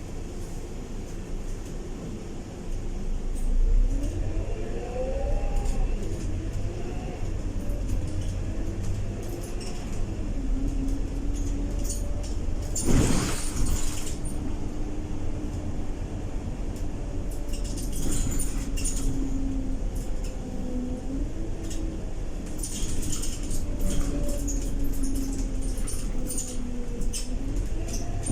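Scania K230UB bus diesel engine and ZF 6HP504C automatic gearbox running, the engine tone rising and dropping back through gear changes, then holding steady while cruising. A loud hiss of air cuts in about a third of the way through, and light rattles come and go.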